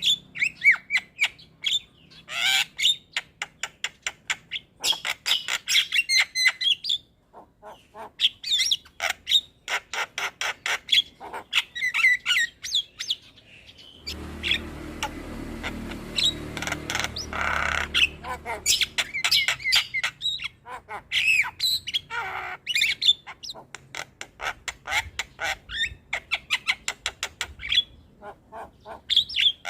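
Javan myna (jalak kebo) singing: fast runs of chattering notes, whistles and harsh squawks in bursts separated by short pauses. About halfway through there is a few-second stretch of noisier sound with a low rumble underneath.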